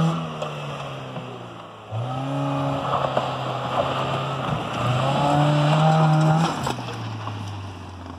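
Ford Mondeo Mk1's 16-valve Zetec four-cylinder engine revving and held at high revs as its wheels spin on loose dirt, with the gritty hiss and ticks of kicked-up dirt and stones. The revs climb about two seconds in, dip briefly, hold high again, then drop to a lower steady speed near the end.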